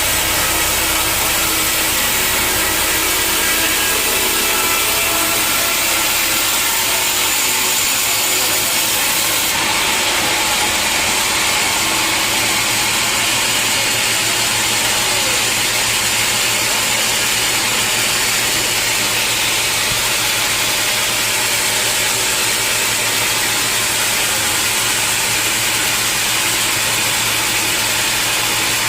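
Band sawmill running steadily, its blade sawing through a large log, with a loud, even machine noise.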